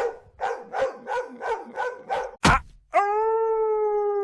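A dog barking rapidly, about eight quick barks in a row, then a sharp knock about two and a half seconds in, followed by one long, steady howl.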